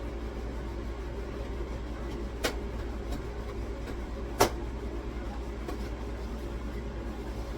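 Groceries being set down and shifted on refrigerator shelves: two sharp knocks about two seconds apart, the second the louder, with a few faint taps between, over a steady low hum.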